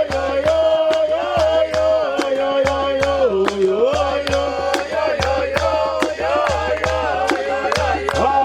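Song with a voice holding long, gliding notes over a steady drum beat of about two strokes a second.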